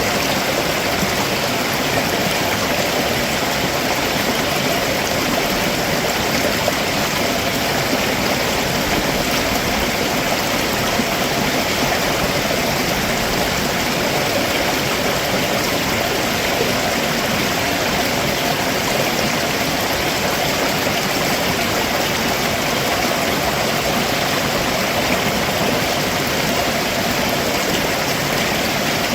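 Stream water running and splashing over rocks below a waterfall: a steady, even rush.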